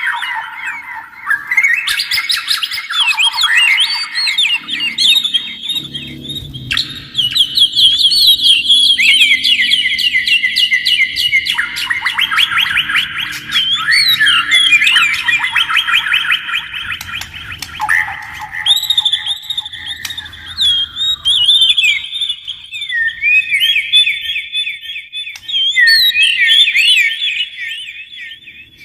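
Copsychus songbird, the Oriental magpie-robin or shama type, singing a long, rapid, varied song of whistles and trills with hardly a pause.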